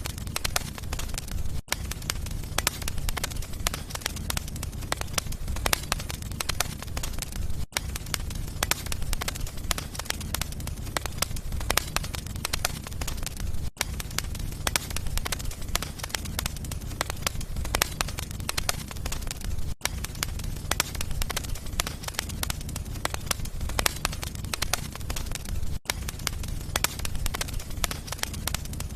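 Wood fire crackling in a fireplace: many small snaps and pops over a steady low rumble, broken by a short gap about every six seconds.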